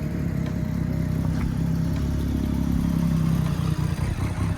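Motorcycle engine idling steadily, a low, even drone.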